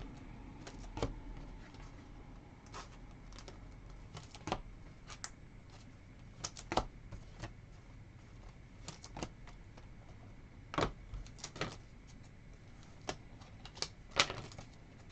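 Irregular light clicks and taps of trading cards and their plastic and cardboard packaging being handled on a table, with the sharpest click about 14 seconds in.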